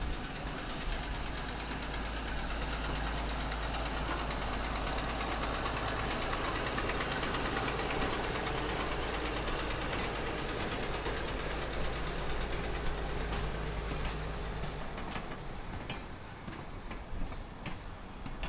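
GE 45-ton diesel switcher running past at low speed, its engine noise steady, with the flatcar and caboose rolling along behind it. About fifteen seconds in the engine sound fades and sharp wheel clicks over the rail joints stand out as the caboose goes by.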